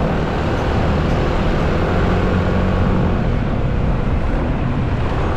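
Steady road traffic noise: vehicle engines and tyres rumbling continuously.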